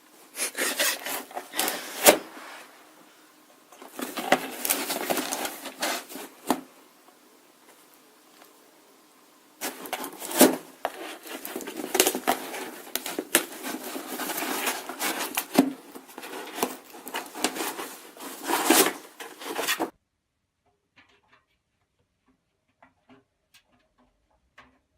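Rubbing and scraping noises with sharp clicks, in three spells, the last and longest stopping abruptly.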